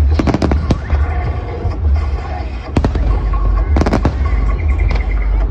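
Aerial fireworks shells bursting: clusters of sharp bangs and crackles, one just after the start, one near three seconds and a denser one about four seconds in, over a continuous low rumble.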